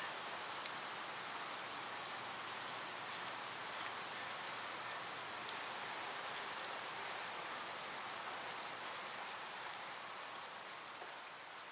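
Steady rain falling, with scattered sharp drops landing close by. It begins to fade out near the end.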